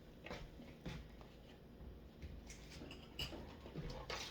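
Scattered light clinks and knocks of dishes being handled while they are washed by hand in a basin.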